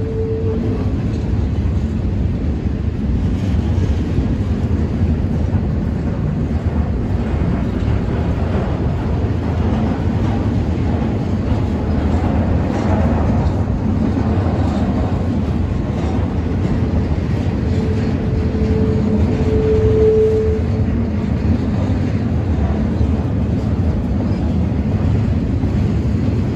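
Freight cars rolling past on the rails: a steady, loud running noise of steel wheels on track. About two-thirds of the way through, a single steady high squeal sounds for a few seconds.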